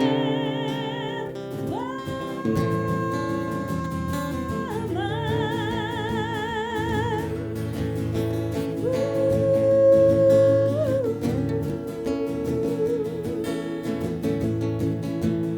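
Live Celtic folk music without words: acoustic guitar accompaniment under a melody of long held notes with vibrato, the loudest note held about nine to eleven seconds in.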